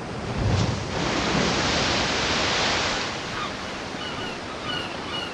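Rushing sea water, a steady wash like waves or a boat's wake that swells and then eases off, with short high chirps repeating in the second half.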